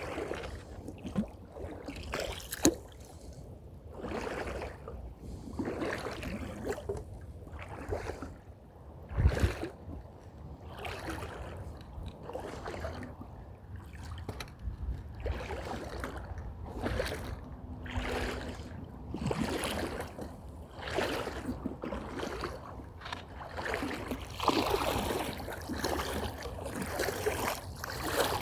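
Footsteps on a trail at a steady walking pace, about one step a second, with one heavier thump about nine seconds in.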